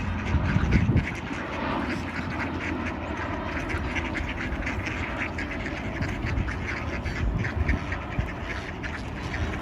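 A flock of mallard ducks quacking, many calls overlapping in a continuous clamour as they crowd for food. A low rumble rises over it in the first second.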